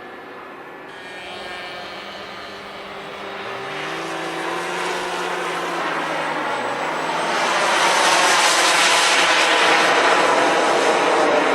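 RC model F-16 jet flying, its engine growing steadily louder as it comes closer, then staying loud for the last few seconds. The engine noise is a rushing sound with faint tones that glide in pitch.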